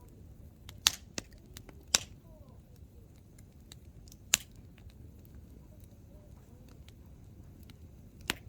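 Hardwood logs burning in an open campfire, crackling with sharp pops: two loud ones about one and two seconds in, another about four seconds in, and one near the end, over a low background rumble.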